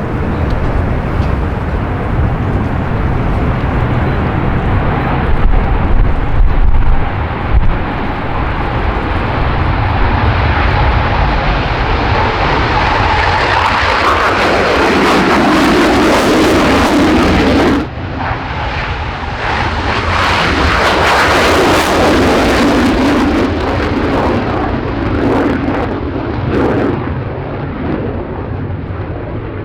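Panavia Tornado's twin RB199 turbofans at full afterburner power on take-off, a loud steady jet noise that swells as the aircraft passes, with a sweeping shift in tone. It cuts off abruptly about 18 seconds in and resumes straight away at a similar level.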